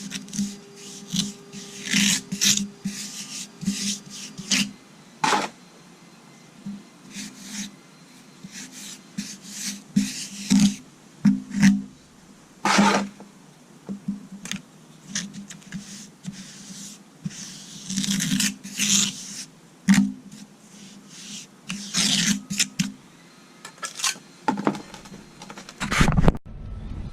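A hand tool scrapes and rubs a dry concrete patch mix into damaged concrete steps in irregular strokes, working the patch into the holes.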